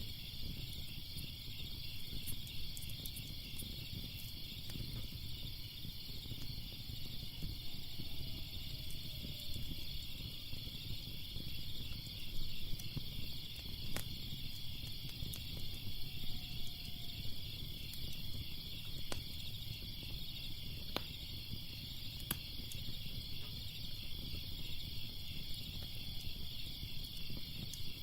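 Crickets chirping steadily over the low rumble of a crackling fire, with a few sharp pops from the fire now and then.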